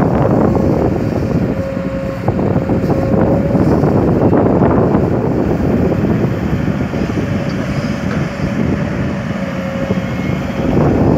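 Kobelco SK200 hydraulic excavator working under load: its diesel engine runs loud and steady, with a high steady note from the machine coming and going as it digs and swings.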